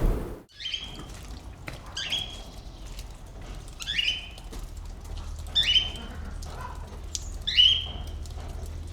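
A bird calling five times, evenly about every two seconds, each call short and dropping slightly in pitch.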